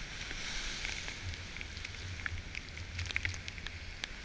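Ocean surf and wind heard through a GoPro's waterproof housing: a steady hiss over a low rumble, with many small ticks of sea spray striking the case.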